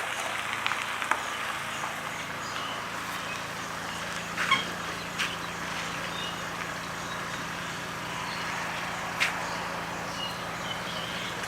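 A car engine idling steadily, with a couple of short knocks and faint bird chirps over it.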